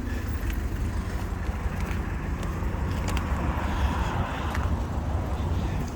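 Street traffic: a car passes, its tyre and engine noise building and then dropping away between about two and a half and four and a half seconds in, over a steady low rumble.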